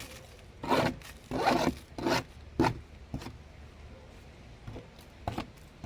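Short rasping scrapes of digging through garden soil while hunting for earthworms: five strokes in the first three seconds, fainter ones after, and one more near the end.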